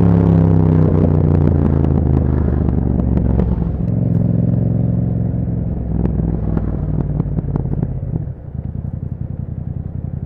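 A 2021 Yamaha MT-07's parallel-twin engine, breathing through an Akrapovic exhaust, winds down off the throttle as the bike slows, its pitch falling steadily, with scattered crackles from the exhaust. About eight seconds in it drops to a quieter, steady, pulsing idle.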